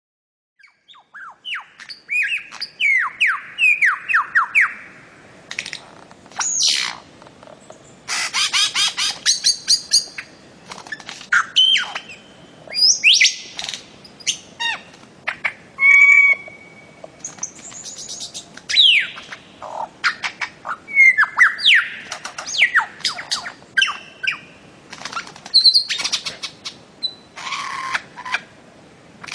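Bird-of-paradise calling: a quick series of descending whistled notes, then loud squawks, sweeping calls and fast runs of repeated chirps, on and off throughout.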